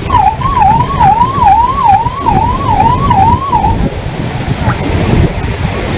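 Emergency-vehicle siren in a fast up-and-down warble, about two cycles a second, stopping a little past halfway, over a steady heavy low rumble.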